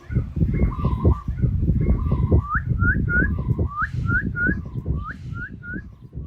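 Repeated bird-like whistled chirps; from about two seconds in they become quick rising chirps, about three a second. Under them runs a dense, irregular low rustling noise that fades near the end.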